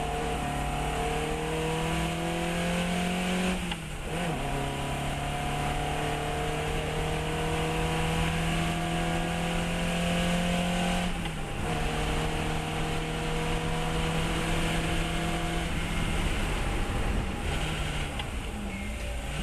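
Fiat 132 race car's four-cylinder engine pulling hard through the gears, its pitch rising steadily and dropping at two upshifts about four and eleven seconds in. Near the end the engine note falls away off the throttle, with short blips on the downshifts.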